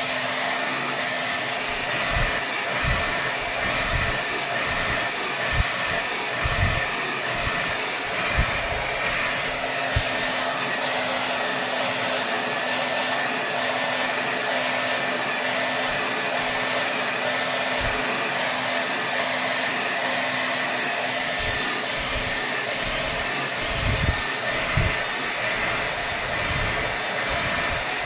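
Hair dryer running steadily at full power: a constant rush of air with a steady whine, broken by a few brief low thumps in the first third and again near the end.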